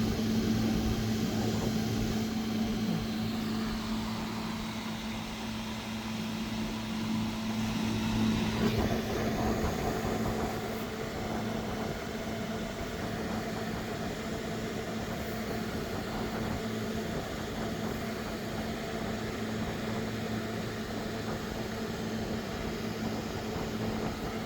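A steady low mechanical hum under a rushing background noise, swelling briefly about nine seconds in.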